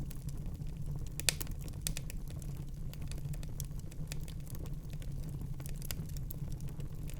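Wood fire in a fireplace crackling: a steady low rumble of flames under irregular sharp pops and snaps, the loudest about a second in.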